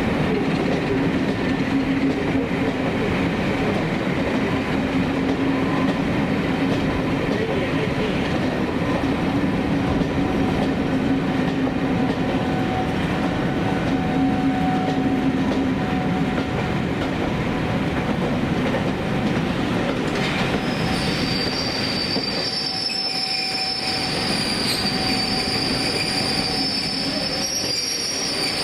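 Train running slowly on curved track, with steady rumbling wheel and running noise, joined about two-thirds of the way in by high-pitched steel-wheel flange squeal that carries on to the end.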